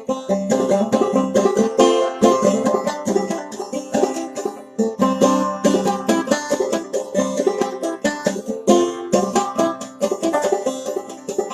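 Solo clawhammer banjo playing an old-time tune: a fast, steady stream of plucked notes with a driving rhythm.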